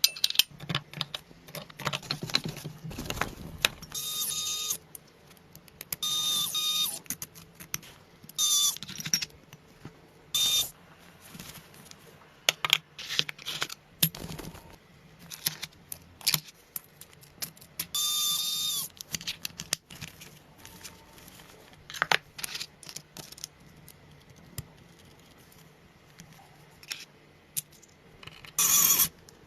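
Small metal parts clicking and clinking during hands-on assembly of a miniature four-cylinder engine, cut by about six short bursts, each under a second, of a high steady whine from a small electric tool.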